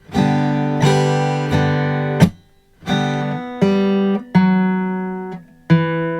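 Acoustic guitar chords strummed slowly and left to ring, a G major bar among them. The ringing is twice cut off abruptly for about half a second, the first time with a sharp muting click about two seconds in.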